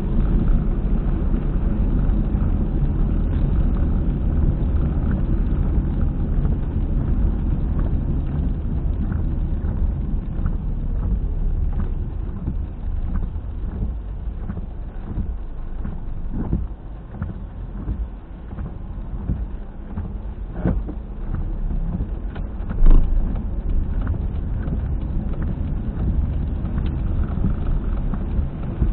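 Car travelling at expressway speed with a loud, rhythmic knocking rumble from the rear wheel ("boko boko boko"), apparently a failed wheel hub bearing. One sharper, louder thump about three quarters of the way through.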